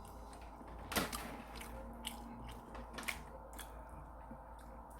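A person chewing a mouthful of tteokbokki, with a few faint clicks about a second apart.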